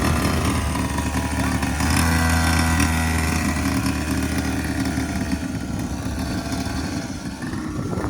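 Small petrol engine of a kids' quad bike running at low, steady revs, growing gradually quieter, then dropping away abruptly near the end.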